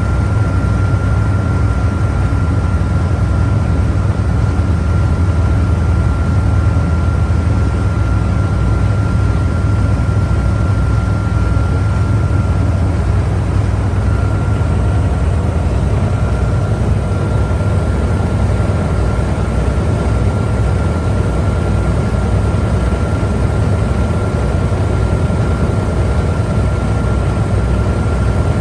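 Boat engine running steadily at cruising speed, heard from on board: a loud, even low drone with a faint steady whine above it.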